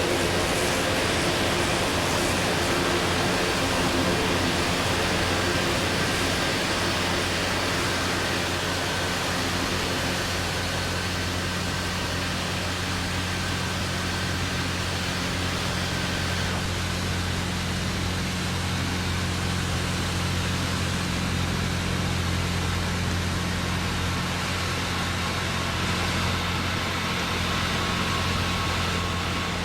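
Jet aircraft engines running: a steady rushing noise over a low hum, with a faint high whine that dips slightly in pitch near the start.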